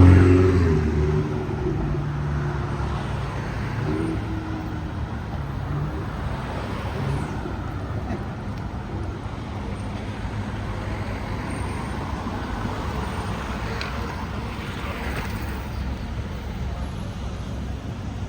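Road traffic: a vehicle's engine passes loudly at the start and fades over the first couple of seconds, leaving a steady hum of passing cars.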